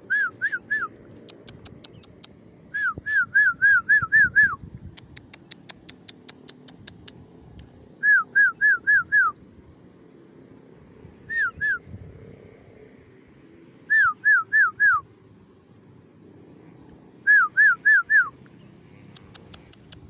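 Yellow-vented bulbul (trucukan) calling: six phrases of two to six quick, down-slurred whistled notes, repeated every few seconds.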